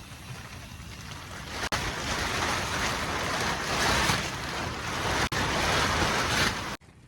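Strong storm wind blowing in a steady rush, growing louder about two seconds in, then cutting off abruptly near the end.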